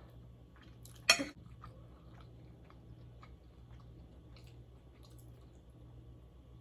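Close-up chewing of food, with faint small clicks and wet mouth sounds scattered throughout. There is one brief louder sound about a second in, over a steady low hum.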